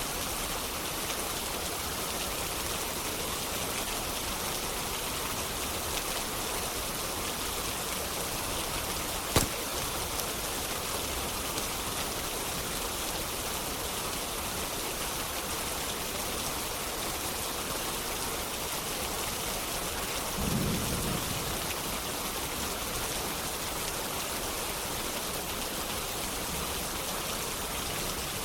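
Steady rain hiss with a single sharp snap about nine seconds in and a brief low rumble of distant thunder about twenty seconds in.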